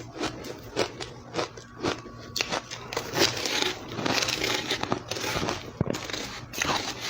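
Close-up crunching of ice being bitten and chewed, with rapid crackling clicks. The crunching grows denser and louder from about the middle.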